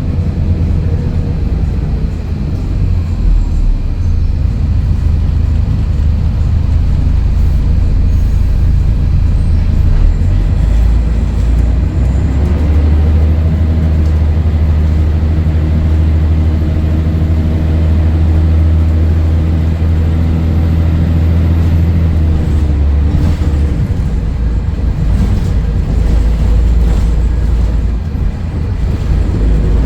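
Scania DSC11 11-litre six-cylinder turbo-diesel in a Scania L113CRL bus, running with a continuous low drone. Its pitch holds steady for a stretch through the middle, then the engine sound shifts and loosens, with a few short knocks.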